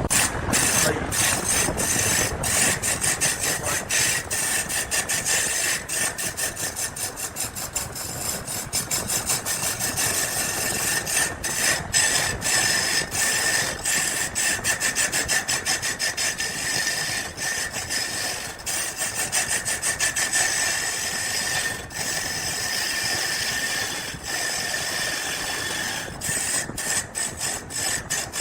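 A power tool working wood: a steady scraping with a faint motor whine, broken by many brief breaks.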